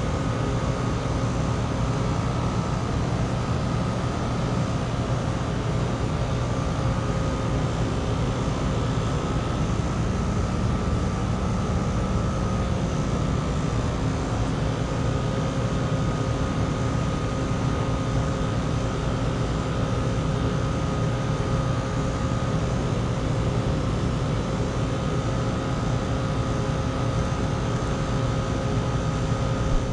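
Outdoor heat pump condensing units running steadily: a continuous compressor hum under the even rush of their fans, with a couple of steady held tones.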